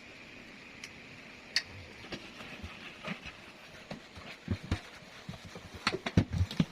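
Plastic water-purifier filter housings being handled during cleaning: scattered light knocks and clatter, coming thicker and louder in the second half.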